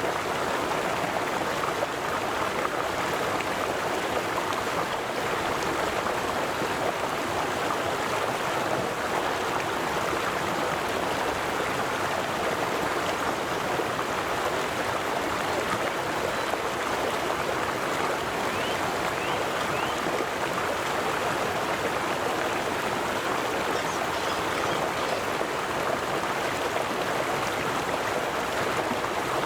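River water flowing: a steady, even rush that holds the same level throughout.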